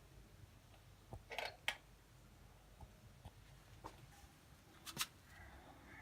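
Budgies: a few sharp, light clicks and taps, with faint soft chirps near the end.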